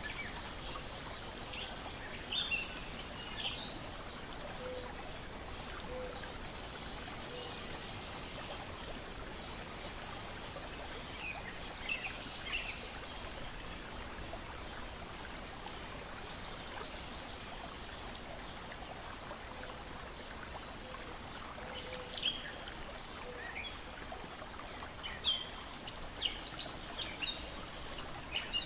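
Lake water lapping and splashing against the shore in a steady wash, with birds chirping in scattered bursts: near the start, again about twelve seconds in, and often near the end.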